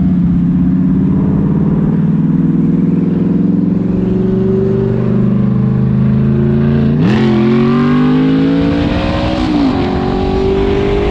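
Audi R8's V8 engine and exhaust running under steady acceleration, its note climbing slowly in pitch, with a quick dip and jump in pitch about seven seconds in and again near ten seconds, as at gear changes.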